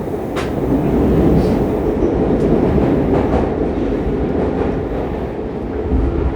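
Fukuoka City Subway 2000 series train (set 23, Hitachi GTO-VVVF) running through a tunnel, heard inside the car as a steady loud rumble of wheels and running gear. Sharp clicks come about a second apart over the first half.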